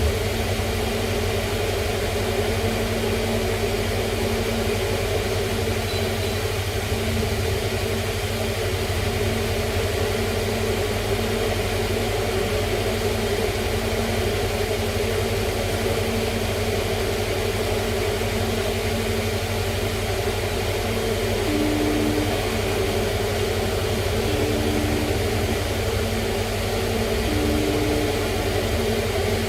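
A steady machine hum made of several constant low tones. Near the end, a faint short tone repeats about every three seconds over it.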